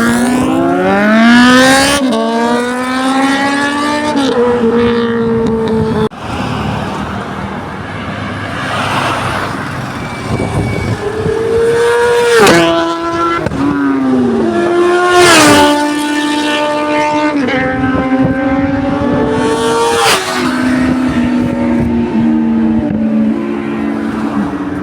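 Several superbikes accelerating hard past one after another, their exhaust note climbing sharply and dropping at each upshift and as each bike goes by, with a steadier engine note near the end.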